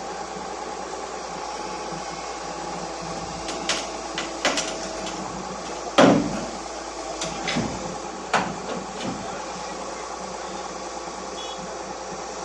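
JCB excavator's diesel engine running steadily while the machine comes off a truck, with a string of heavy metal clunks and knocks, the loudest about halfway through.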